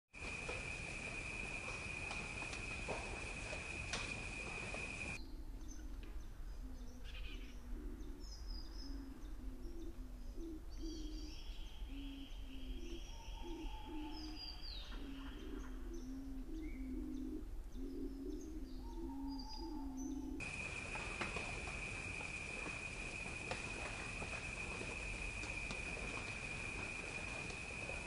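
Wild birds calling and singing: high chirps, a fast, even trill lasting a few seconds, and repeated low calls. Before and after the birdsong, a steady high-pitched whine sounds over a hiss.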